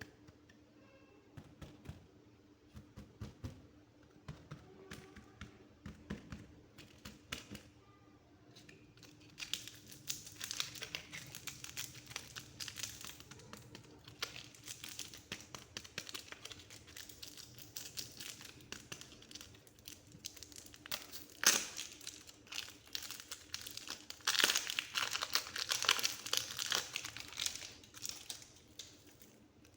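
Hands working soft clay: scattered soft taps at first, then from about a third of the way in a dense, crinkly crackling as the clay is squeezed and stretched. The crackling is loudest near the end, with one sharp click a little past two-thirds through.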